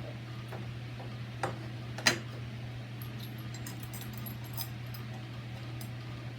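Light metallic clicks and ticks as screws and deadbolt hardware are handled and fitted through a metal mounting plate. The sharpest click comes about two seconds in, over a steady low hum.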